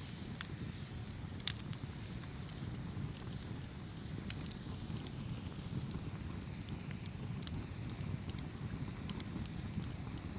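Campfire burning with a steady low rumble of flames and irregular sharp pops and crackles from the burning wood, one louder pop about a second and a half in.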